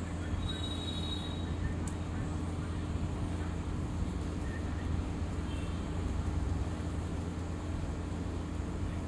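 Steady low mechanical hum, with a few faint, short high chirps near the start and again about five and a half seconds in.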